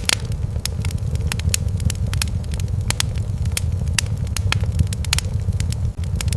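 Fireplace fire crackling, with irregular sharp pops several times a second over a steady low rumble.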